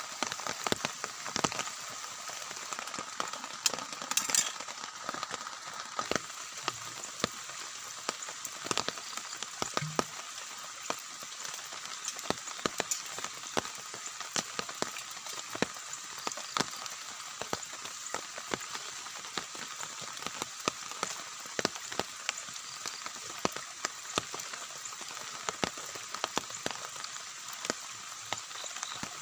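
Rain falling on a tent, a steady hiss made of many sharp individual drop hits with a crackling, sizzle-like texture, with a brief louder cluster of hits about four seconds in.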